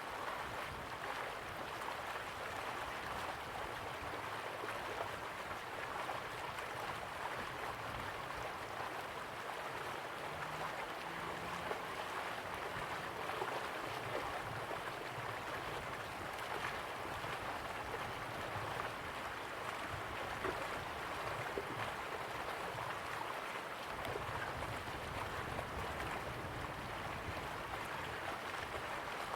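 River water flowing slowly, a steady rushing with small gurgles and trickles.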